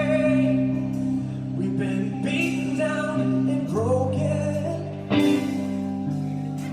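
A live rock band playing a slow song, with guitars holding chords over a steady bass.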